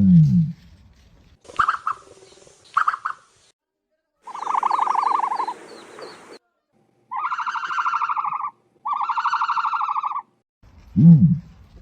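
Ostrich calls. A low, deep booming call fades out at the start and begins again near the end. Between them come several higher, raspy, pulsing grunts in separate bursts.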